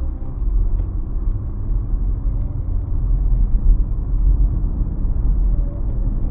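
Steady low rumble of road and engine noise inside a moving 2017 Nissan Rogue.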